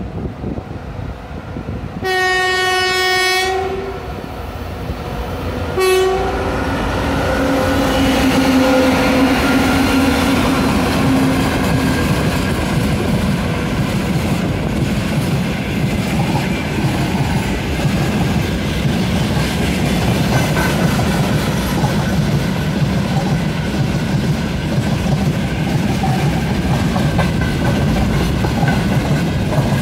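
A 2TE116 two-section diesel freight locomotive sounds its air horn in one long blast about two seconds in and a short second blast about six seconds in, then passes close by, and a train of loaded tank cars rumbles past with wheels clacking over the rail joints.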